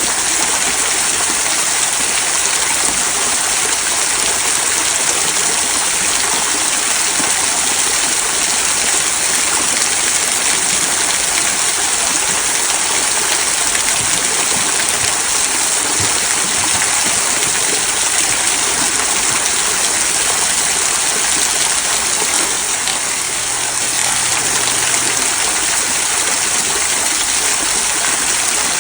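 Small rock waterfall trickling and splashing over stones into a stream: a steady, even rush of falling water.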